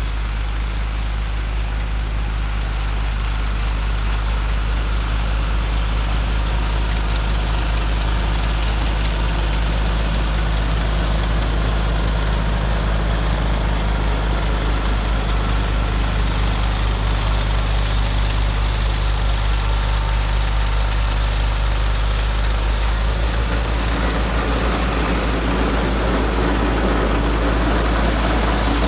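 Tractor engine running steadily, its sound growing fuller and rougher in the last several seconds.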